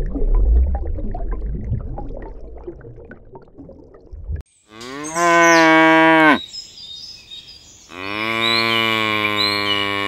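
A cow mooing twice: two long, low calls a couple of seconds apart, the first dropping in pitch at its end. They are preceded by a few seconds of rumbling outdoor noise, and faint bird chirps sound behind the second moo.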